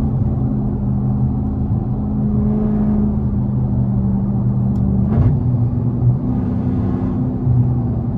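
Dodge Hellcat's supercharged 6.2-litre V8 cruising at steady highway speed, a constant low drone. About five seconds in, its pitch steps slightly up and a brief whoosh passes.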